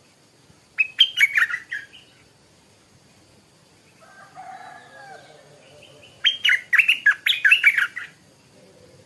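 Stripe-throated bulbul singing two short, bubbly phrases of quick notes, one about a second in and a louder one about six seconds in.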